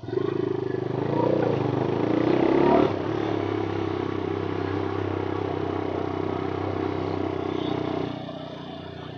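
Motorcycle engine accelerating under way: the pitch rises for the first few seconds, drops suddenly as if shifting up a gear, holds steady, then falls quieter near the end as the throttle eases off.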